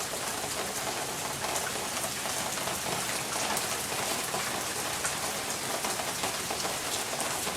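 Storm rain falling steadily: an even, unbroken hiss with scattered sharp drop hits.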